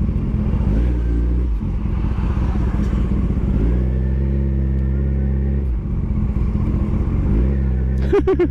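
Sport motorcycle engine running at low speed, its steady note shifting in pitch a few times and gliding near the end, with a few sharp clicks just before the end.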